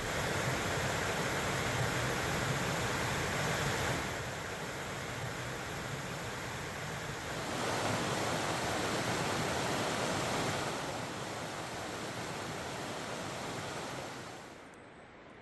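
Steady rushing of a forest stream or waterfall, stepping louder and softer a few times and dropping away near the end.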